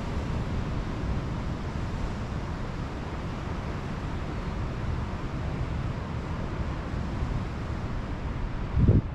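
Steady rush of ocean surf with wind rumbling on the microphone, and a short louder low thump of wind buffeting the microphone near the end.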